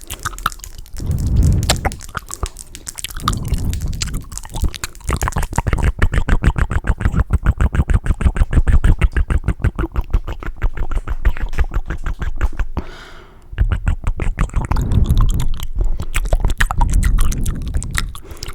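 Close-miked wet mouth and tongue sounds. In the middle they become several seconds of fast tongue fluttering, an even run of wet clicks at about ten a second, then go back to slower, irregular wet smacks.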